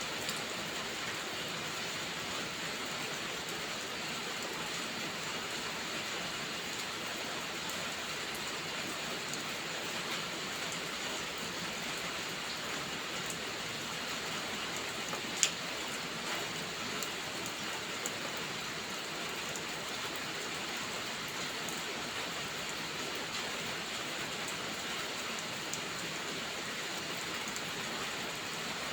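Steady rain falling, an even hiss, with a few sharp clicks or pops over it, the loudest about halfway through.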